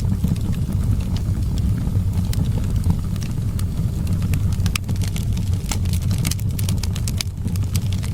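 Wood fire crackling with frequent sharp pops, over a steady low rumble of wind.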